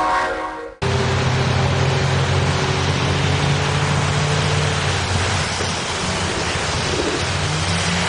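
Steady rushing road and wind noise with a low, steady vehicle engine hum, beginning after a sharp cut under a second in.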